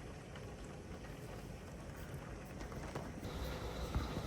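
Gusting wind and rain of a thunderstorm: a steady low rumble with faint scattered ticks, growing a little louder about three seconds in.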